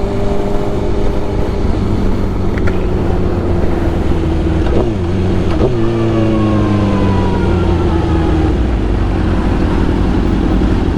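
Sport motorcycle engine under way with wind rush. The engine pitch eases down, jumps sharply twice about five and six seconds in, then falls slowly again as the bike slows.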